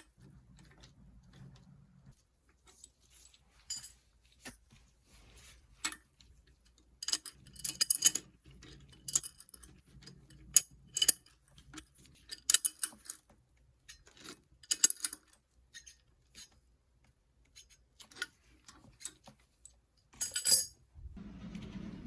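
Irregular metallic clicks and clinks of tools and bicycle parts being handled during bicycle repair. The clinks come in scattered clusters. Near the end a steady hiss starts.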